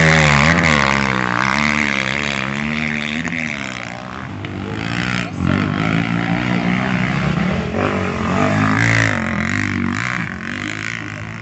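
Motorcycle engine revving, its pitch rising and falling repeatedly as the throttle is worked, strongest in the first few seconds.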